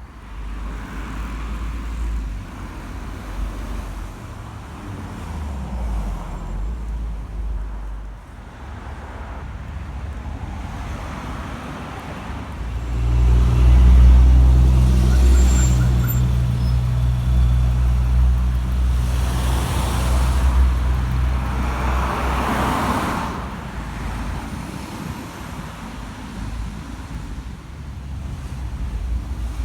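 A motor vehicle's engine running close by over general road traffic noise, growing much louder about halfway through and staying loud for roughly ten seconds before easing off.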